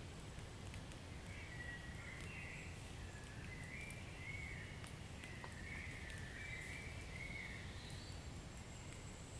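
Wood fire burning in a fireplace: a steady low rumble with a few faint crackles, and a wavering high-pitched whistle that rises and falls in small humps.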